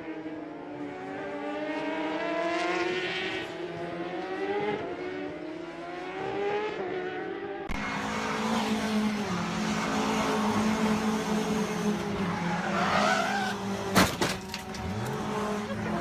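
Racing car engines revving up and down through gear changes. About halfway through the sound changes abruptly to steadier engine noise, with one sharp bang near the end.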